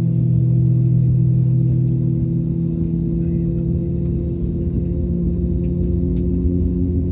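Steady drone inside the cabin of an Airbus A320neo, from its engines and cabin air systems, made up of several held low tones; another tone joins a little over six seconds in.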